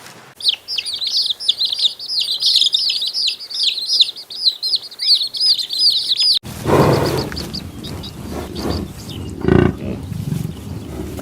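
A dense chorus of small birds chirping rapidly, many quick overlapping notes, for about six seconds. It then cuts off abruptly to a different recording of lower, rougher sound with a few louder bursts.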